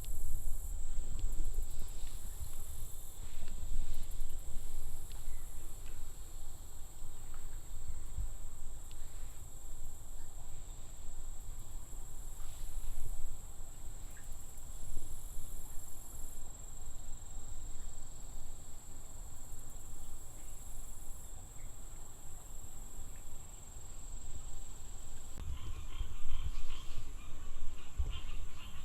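Insects droning on one steady high note, over an uneven low rumble of wind and handling on the microphone. Near the end a rapid pulsing call from another creature joins in.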